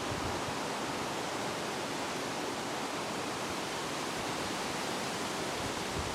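Steady rushing wind, an even hiss with no distinct events. Near the end a low rumble begins to build as a gust starts hitting the microphone.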